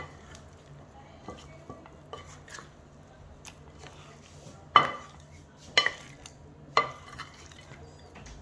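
Spice-coated chicken pieces being mixed in a bowl: soft squelching, scraping and light clicks, with three sharp knocks about a second apart midway through. A faint steady low hum runs underneath.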